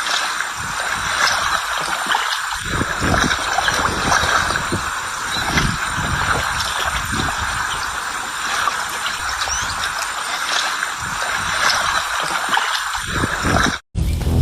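Steady running water, like a stream or trickle, with shifting low rumbles. It cuts off abruptly near the end.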